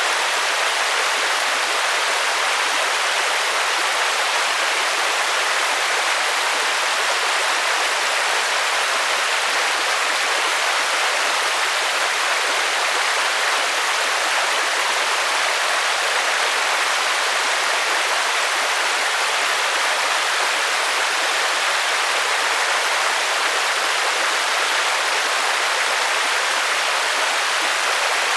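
Heavy rain falling on a lake, a steady dense hiss of drops on the water surface.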